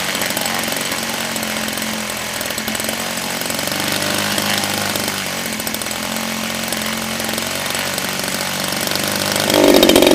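DLE 30cc single-cylinder two-stroke petrol engine running steadily while it warms up, still in break-in. It gets noticeably louder near the end.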